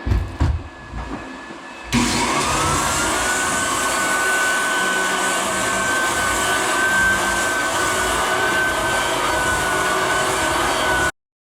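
Big floor sander on an old fir floor, making a coarse 36-grit first pass. A few knocks, then about two seconds in the motor starts with a whine that rises and holds, and the machine runs loud and steady until it cuts off abruptly near the end.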